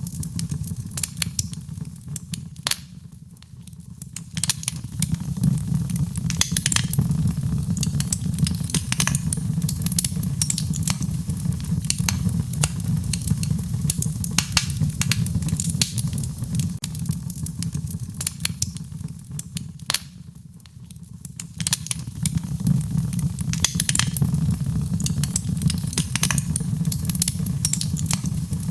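Wood fire in a fireplace crackling: a steady low rumble of flames under frequent sharp pops and snaps. The rumble eases briefly twice, about three seconds in and again near twenty seconds.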